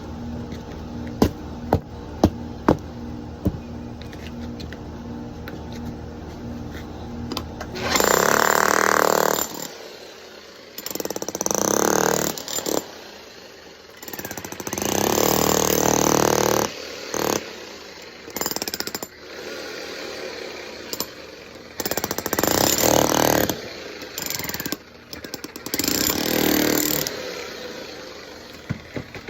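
Jackhammer chipping concrete to reach a leaking pipe under a sidewalk. It goes in about eight bursts of one to two seconds each with short pauses between, starting about eight seconds in, after a steady low hum with a few sharp clicks.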